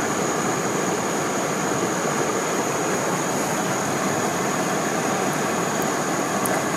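Steady rush of stream water flowing below a waterfall, an even unbroken noise, with a thin steady high-pitched tone above it.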